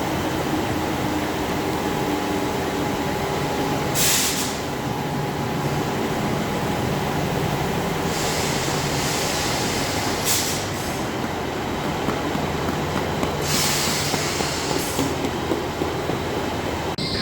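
A train running on the rails: a steady rumble with a low hum, broken several times by short high-pitched hisses.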